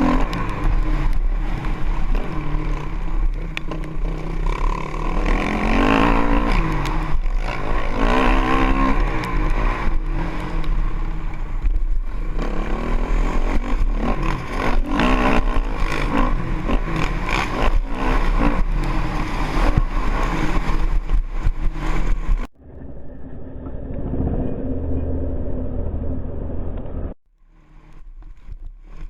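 Honda CRF450X single-cylinder four-stroke engine revving hard and backing off again and again while being ridden around a track. About 22 seconds in the sound cuts abruptly to a duller, muffled engine note, and it drops quieter near the end.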